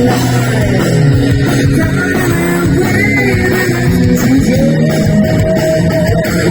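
Live heavy rock band playing, with a sustained, sliding lead electric guitar line over bass and drums.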